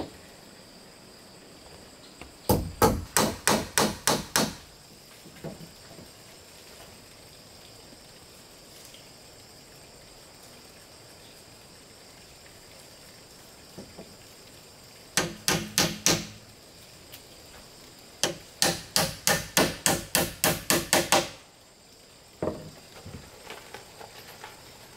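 A hammer striking wood in three quick runs of blows, about four or five a second: a short run early, a shorter one in the middle and a longer run of about a dozen near the end.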